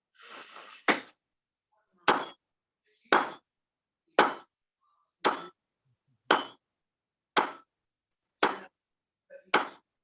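Heavy sledgehammer striking hot leaf-spring steel on an anvil, nine blows in a steady rhythm of about one a second, each a sharp metallic clang with a short ring. A brief rushing noise comes just before the first blow.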